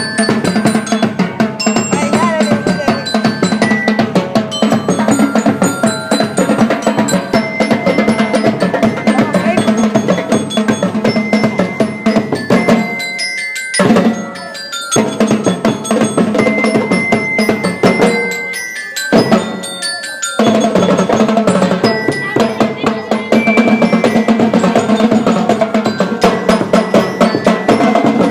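School marching band playing: snare and bass drums keeping a steady beat under bell lyres (glockenspiel) carrying the melody. The low drums drop out briefly twice near the middle.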